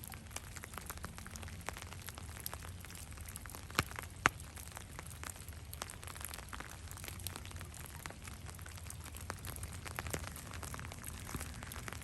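Light rain falling on calm seawater: a steady, random scatter of small drip and tick sounds, with two louder drops about four seconds in.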